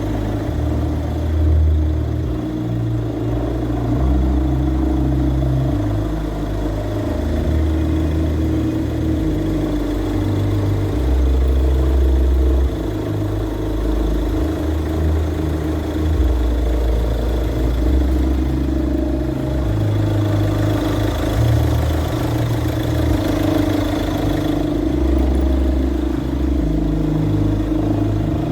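Car engine running with the noise of a destroyed alternator pulley clutch (overrunning alternator pulley).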